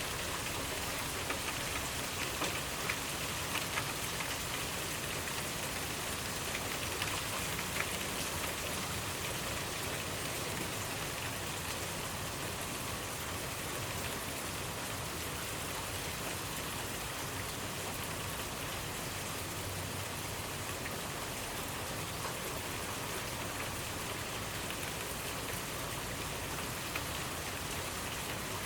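Steady rainfall, with individual drops pattering and ticking on a hard surface over an even hiss.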